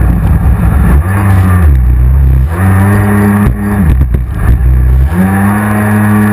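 Racing jet ski engine running hard, its pitch repeatedly falling and climbing again as the throttle is eased and reopened, about three times.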